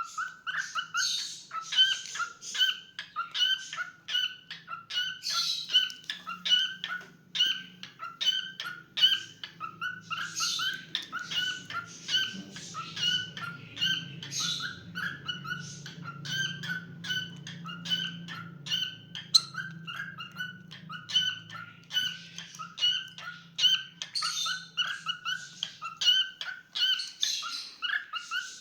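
Cockatiel singing and chattering: a fast, steady run of short repeated chirps, a few a second, with raspy notes mixed in. A faint low hum sits underneath.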